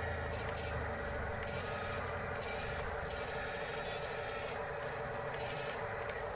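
Radio-controlled construction models running: a steady, fast-pulsing mechanical hum, with a higher whine that comes and goes several times as the models move.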